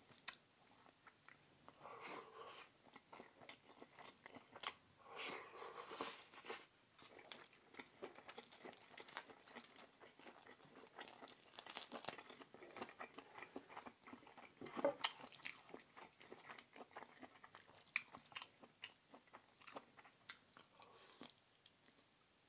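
Close-miked eating sounds of a man chewing and biting food, with many short sharp mouth clicks and a few louder crunches.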